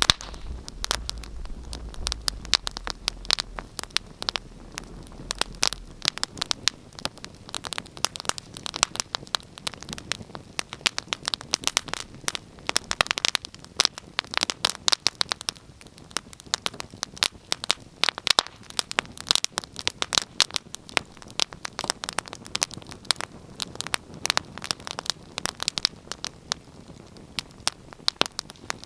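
Wood fire crackling, with dense, irregular sharp pops and snaps. A low rumble sits underneath for the first few seconds.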